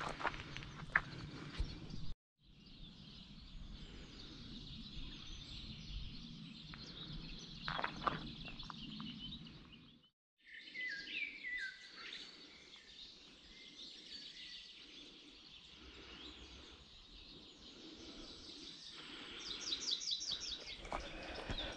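Songbirds chirping and singing over a steady outdoor background hiss, with a few scattered footstep knocks. A quick run of rapid high chirps comes near the end, and the sound cuts out briefly twice, about two and ten seconds in.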